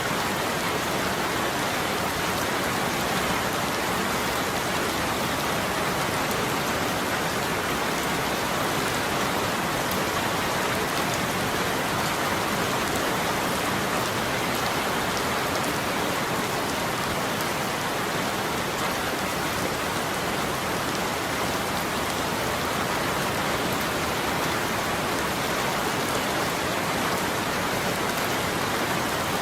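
Steady rain falling, an even hiss of drops with faint scattered taps, unchanging in level.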